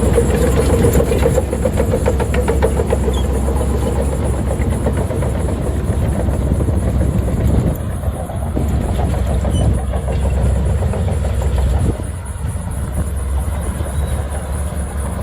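Diesel engine of heavy earth-moving machinery running steadily, with a rapid metallic clatter and a higher whine in the first few seconds.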